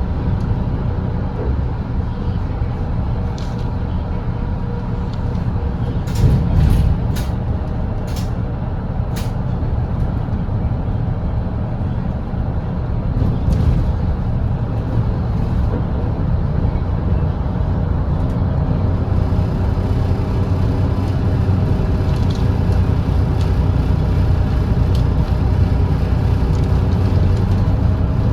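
Volvo B8RLE double-decker diesel bus running steadily at highway speed: a continuous low engine drone with road noise. A handful of sharp clicks or rattles come about six to nine seconds in, and the sound grows a little louder and hissier in the second half.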